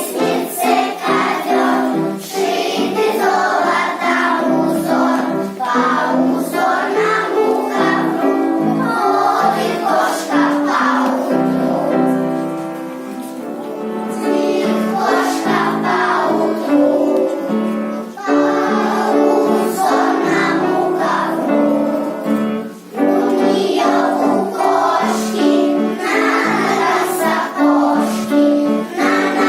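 A song sung by a group of children in chorus over musical accompaniment. The singing dips briefly about halfway through.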